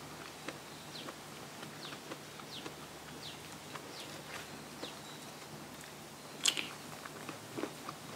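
Close-miked chewing of papaya salad and crunchy vegetables: soft wet mouth clicks and crunches, with one sharper crunch about six and a half seconds in. Faint short high chirps recur in the background.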